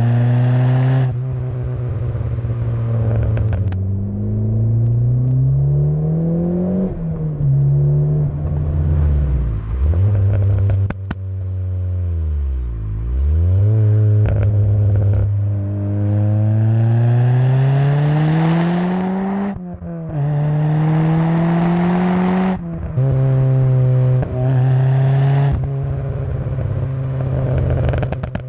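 Ford Fiesta's swapped-in, turbocharged 1.7-litre Ford Puma engine and exhaust under hard acceleration on the road. The revs climb and then drop sharply several times at gear changes, with one slow fall and rise in revs about halfway through.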